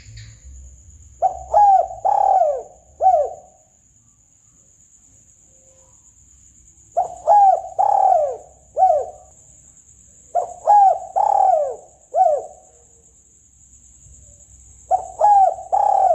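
Spotted dove (tekukur) song used as a hunting lure call: four phrases of low cooing a few seconds apart, each a quick run of four or five notes. A thin steady high tone runs underneath throughout.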